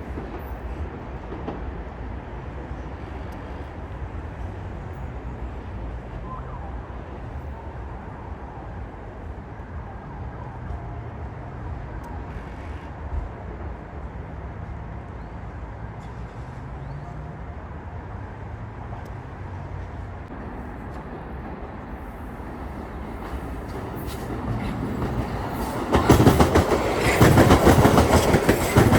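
Metro-North commuter train approaching with a low rumble that grows, then going by close and loud from about 26 seconds in.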